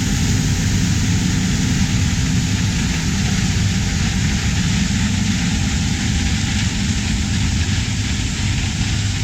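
Heavy diesel harvest machinery running steadily: a constant low engine drone with an even hiss above it.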